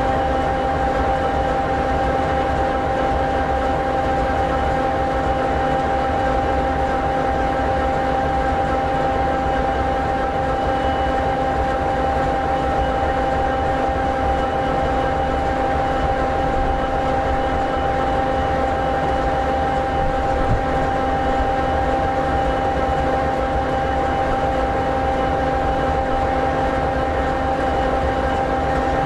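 EMD 16-710G3B diesel prime mover of an SD60E locomotive idling steadily. This 16-cylinder two-stroke engine gives a constant low rumble with steady whining tones above it.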